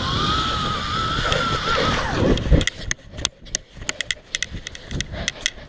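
Zip line pulley running along the steel cable with a whine that climbs, holds and falls away, ending in a dull thud about two and a half seconds in; then a run of sharp irregular clicks and snaps.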